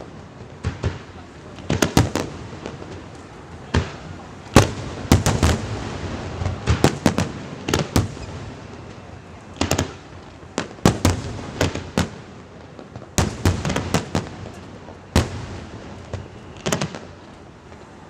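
Aerial fireworks shells bursting overhead: a string of sharp bangs, some single and some in quick clusters of two to four, with crackling in between.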